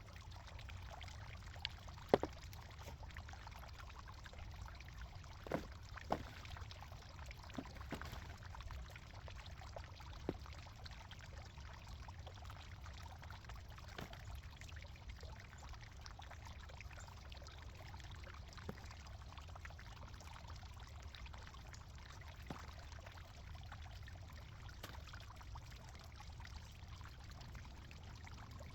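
Faint steady low rumble with a few scattered sharp clicks, the loudest about two seconds in.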